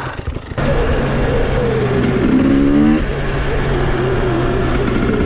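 Two-stroke enduro motorcycle engine: popping unevenly at low revs, then opened up sharply about half a second in. It revs up with rising pitch, drops sharply about three seconds in, and pulls on steadily.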